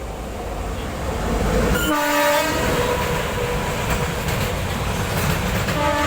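Goods train rolling past with a steady rumble and rattle of wheels on the rails, growing louder. The locomotive horn sounds a short blast about two seconds in and another near the end.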